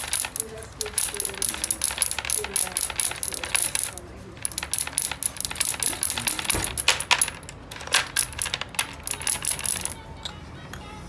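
Rapid, uneven light metallic tapping and clattering with a thin high ringing: a craftsman's hand tools at work on a name lettering. It pauses briefly about four seconds in and dies down near the end.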